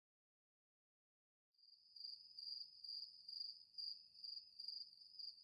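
Faint, high-pitched chirping like an insect, evenly pulsing about two to three times a second, starting about a second and a half in.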